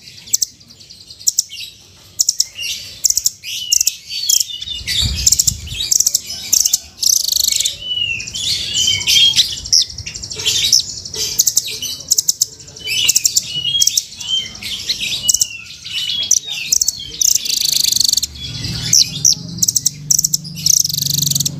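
Velvet-fronted nuthatch (rambatan) calling: rapid runs of high, sharp chirps and trills, one after another. A low hum joins near the end.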